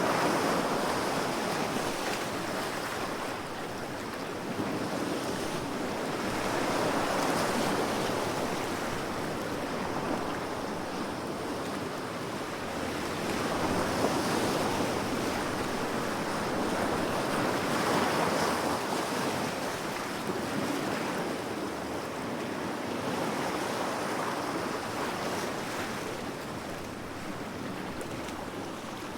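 Ocean waves washing onto a shore, a steady rush of surf that swells and ebbs every few seconds, with some wind noise.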